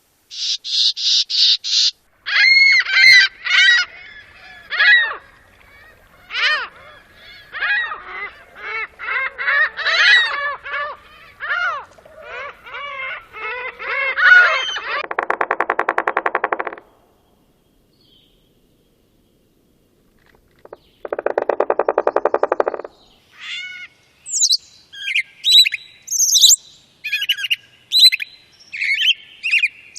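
A string of different birds' calls and songs, one after another: a quick run of high notes, several seconds of varied song, a harsh buzzing rattle, a pause, a second buzzing rattle, then high chirps near the end.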